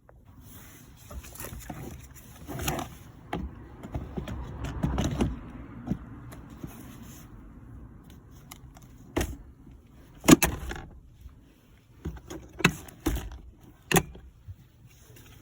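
Rustling and handling of parts inside a car, then several sharp clicks and knocks, the loudest about ten seconds in.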